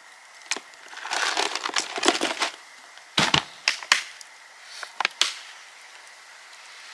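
Dry wood being broken and handled: a crunching, rustling stretch, then several sharp cracks, as when kindling is snapped for a campfire.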